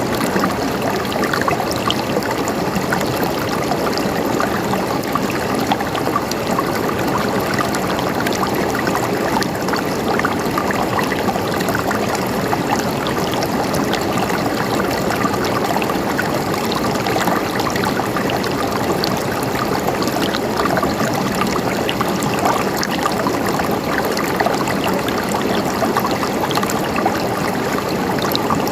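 River water flowing steadily, a continuous rushing babble with fine splashing over stones.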